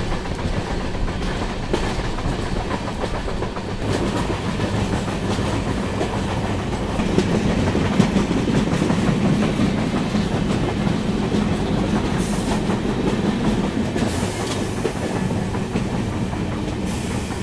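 Passenger train running along the track, heard from the open doorway of one of its coaches: a steady rumble and rattle of wheels on the rails.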